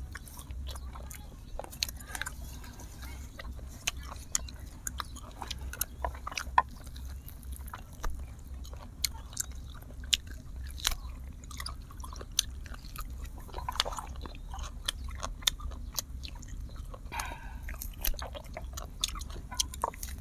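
Close-miked eating: chewing, with frequent sharp crackles, clicks and smacks as grilled duck is bitten and gnawed off the bone. A steady low rumble sits underneath.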